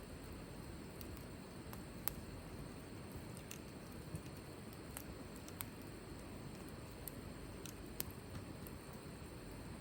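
Wood fire crackling, with scattered sharp pops over a low, steady rustle of burning. The loudest pops come about two seconds in and again about eight seconds in.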